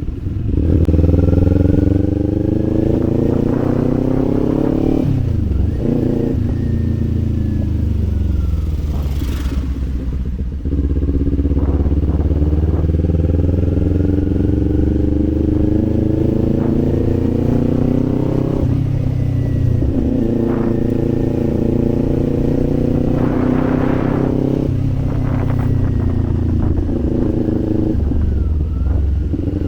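Kawasaki Z400 parallel-twin engine and exhaust under way, revving up through the gears. The pitch climbs and then drops with each of several upshifts, and the revs fall off for a couple of seconds about a third of the way in before it pulls again.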